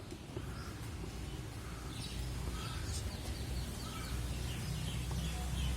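Small birds chirping in short scattered calls, with a quick run of chirps in the second half, over a steady low rumble.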